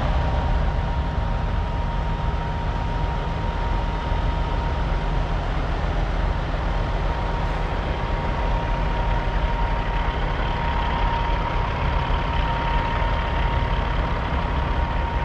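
Heavy diesel truck engine idling steadily, with a thin, steady high whine held throughout.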